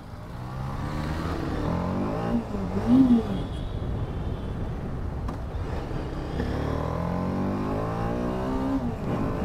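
TVS Apache RR 310's single-cylinder engine running on the move, its pitch climbing twice as the bike accelerates, with wind noise throughout.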